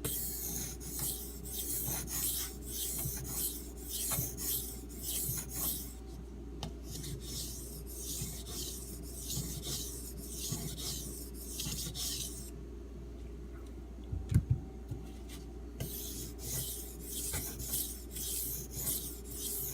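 A D2 steel knife blade being stroked back and forth across a wet, muddy 3000-grit Arkansas water stone, a rasping hiss with each stroke at about two strokes a second. The stone is soft and shedding grit into a slurry. The strokes pause for a few seconds past the middle, with a couple of knocks, then resume.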